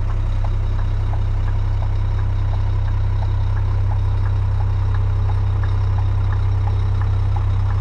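Scania G420 truck's inline-six diesel engine idling steadily with a deep, even hum. A light regular ticking, about one and a half ticks a second, runs over it.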